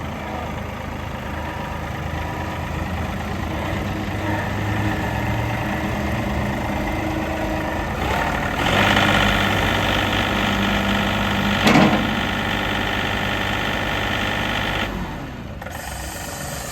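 John Deere 2038R compact tractor's three-cylinder diesel running. About halfway through it gets louder for several seconds, with a single knock near the end of that stretch, then drops back to idle.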